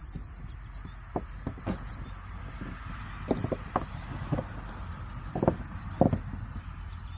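Crickets chirring steadily, with scattered light knocks and taps as the electrical inlet and its wires are handled against the trailer wall, the loudest two near the end.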